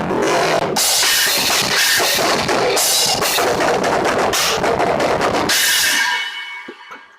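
Acoustic drum kit playing fast with bass drum, snare and crash cymbals. About six seconds in it ends on a cymbal hit that rings out and fades away.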